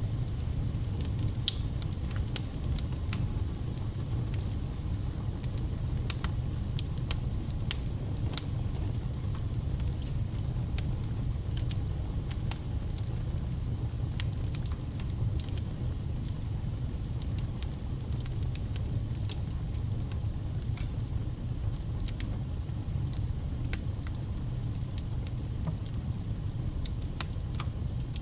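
Wood fire burning, crackling and popping with many sharp, irregular snaps over a steady low rumble.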